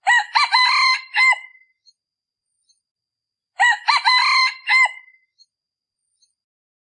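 Male decoy junglefowl cock crowing twice, each crow about a second and a half long, with a pause of about two seconds between. This is a lure call, played to draw wild junglefowl.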